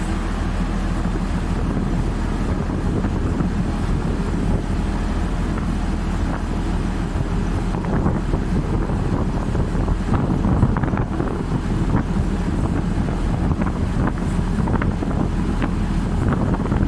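A river ferry's engine running steadily, with wind buffeting the microphone.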